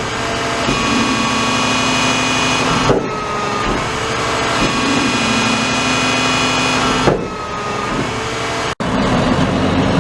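Garbage truck running, with steady whining tones that shift in pitch about three and seven seconds in. The sound drops out for an instant near the end.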